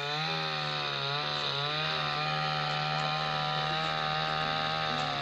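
Wood cutter's Yamaha petrol engine running at high, steady speed, its pitch wavering slightly in the first couple of seconds.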